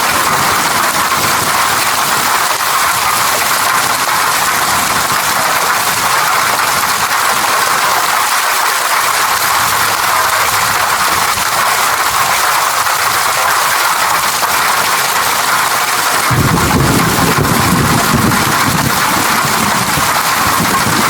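Steady rain falling, an even hiss. About three-quarters of the way through, a low rumble of thunder comes in under the rain and keeps going.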